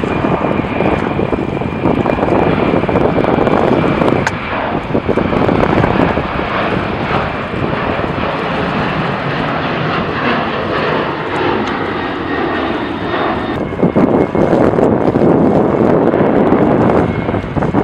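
Jet airliner engines running loud, a dense rushing noise with a faint high whine over the first few seconds and again near the end.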